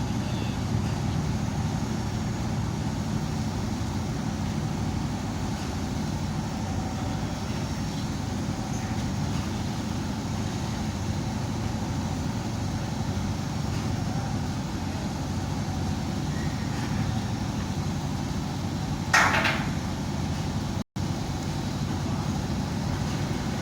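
A ship's engine running with a steady low rumble. A brief sharp noise cuts through it about nineteen seconds in.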